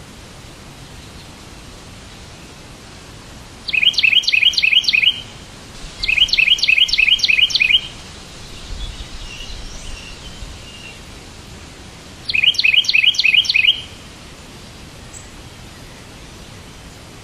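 Bird chirping in three quick bursts of rapidly repeated notes, each about a second and a half long, with a fainter call between the second and third bursts, over a steady background hiss.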